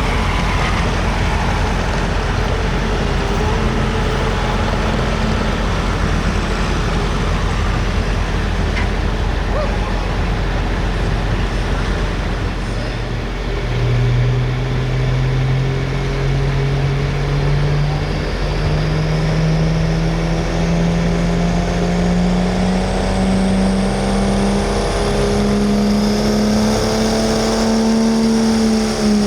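Diesel pickup truck pulling a sled in a pro street class truck pull, its engine running hard. About halfway through, the engine note climbs steadily in pitch, with a faint high whistle rising alongside it.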